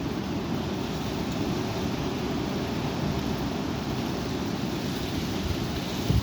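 Strong wind buffeting the microphone: a steady low rumble, with a brief louder thump near the end.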